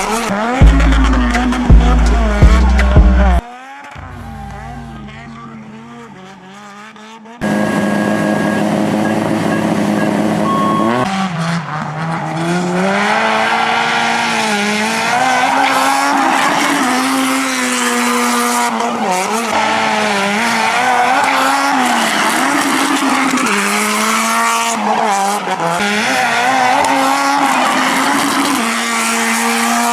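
Nissan 180SX's turbocharged SR20 four-cylinder engine revving hard and dropping again and again as the car drifts, with wet tyres sliding. For the first seven seconds there are other, quieter sounds, then a sudden cut into the engine.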